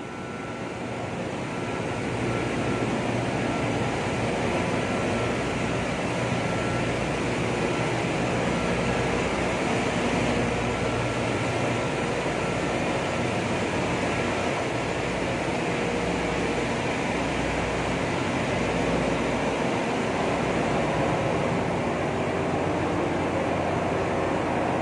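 Running machinery in a crude-oil tanker's engine room: a steady, dense din with a low hum underneath. It swells over the first couple of seconds, then holds even.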